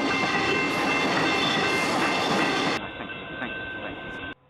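Electric suburban train running on the tracks: rail and wheel noise with steady high whining tones. About three seconds in it cuts to a quieter stretch of rail noise with a few clicks, which stops abruptly near the end.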